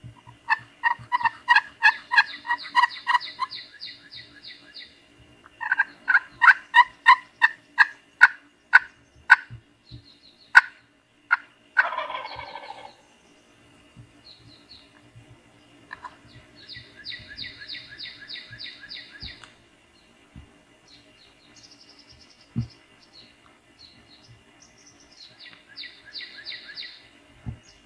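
Wild turkey gobbling at daylight, a loud rattling gobble about twelve seconds in, among series of quick repeated bird calls and higher songbird trills.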